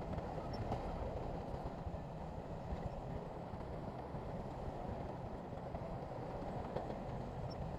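Diesel engine of heavy earthmoving machinery running steadily, a low even noise that neither rises nor falls.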